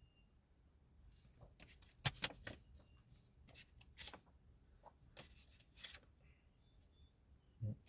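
A deck of cards being shuffled and handled, heard as a quiet run of crisp clicks and snaps between about two and six seconds in. A single low thump comes near the end.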